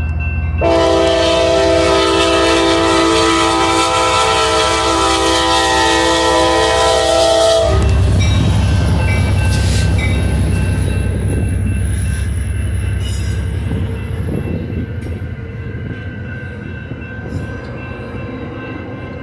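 Amtrak San Joaquin passenger train at a grade crossing. Its locomotive horn sounds one long multi-tone chord for about seven seconds, then cuts off as the locomotive rumbles past. The passenger cars follow, their wheels clattering over the crossing, and the sound eases off toward the end.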